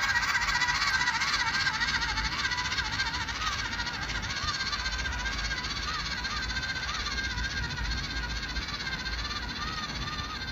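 Small RC crawler truck's electric motor and two-speed gearbox whining in low gear, the pitch wavering up and down with the throttle and growing gradually fainter as the truck crawls away.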